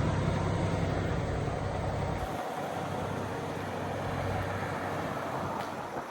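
Heavy truck's diesel engine idling with a low steady rumble; about two seconds in the rumble cuts off abruptly, leaving a fainter, even outdoor hiss.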